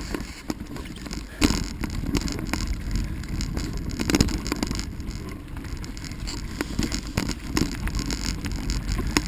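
Bicycle rolling along a rough dirt trail: steady tyre and wind rumble with rattles and knocks over bumps, the loudest about a second and a half in and again around four seconds.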